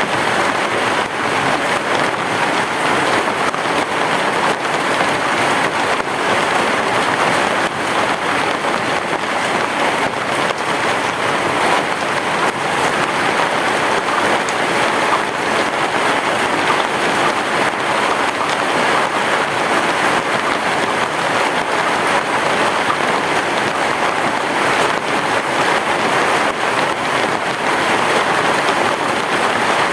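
Heavy rain falling steadily, a dense even patter of drops with no thunder in it.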